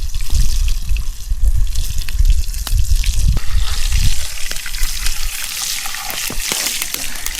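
Bacon sizzling and popping in a hot pan over a campfire: a steady frying hiss dotted with many small crackles. A low, uneven rumble runs under it for the first four seconds or so.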